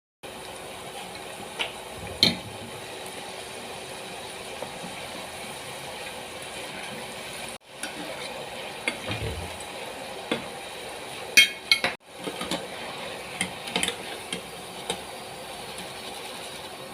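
Kitchen utensils clinking and knocking against dishes in scattered sharp clicks over a steady background hum, broken by two abrupt cuts.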